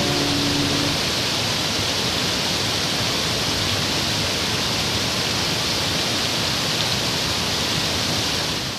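Steady rush of flowing river water, an even hiss with no pauses, as the current pours past an obstruction.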